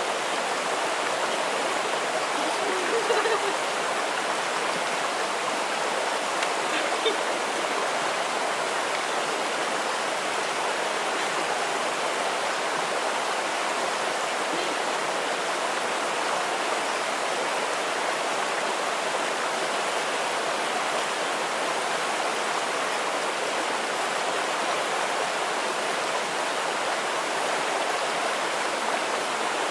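Running water rushing steadily, the even sound of a rainforest stream or waterfall.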